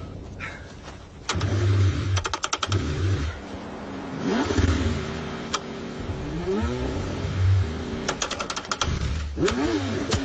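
Car engine being cranked in the cold, struggling to start, in repeated attempts: short bursts of fast, even clicking over a low hum, with rising and falling whines in between.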